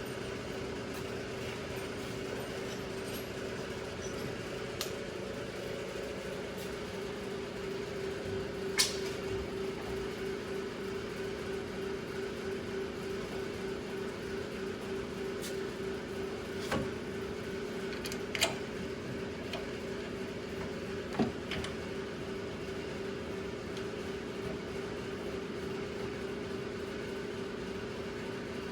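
Steady hum from a running machine, with a slight pulsing, and four sharp knocks or clicks scattered through it, the loudest about nine seconds in.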